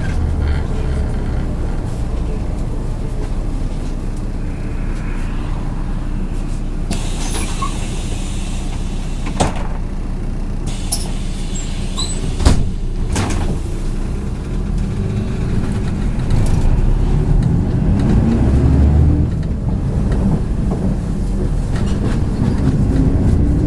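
Inside a MAZ 103 city bus in motion: steady engine and road rumble, with a couple of sharp knocks midway, and the engine note rising over the last several seconds as the bus accelerates.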